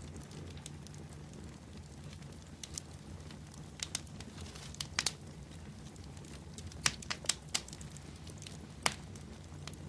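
Wood bonfire burning with a steady low rumble and irregular sharp crackles and pops, a few louder snaps around the middle and near the end.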